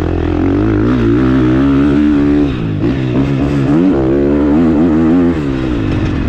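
KTM 450 SX-F's single-cylinder four-stroke engine being ridden hard, revving up and down with the throttle, with short drops in pitch about two and a half and five seconds in.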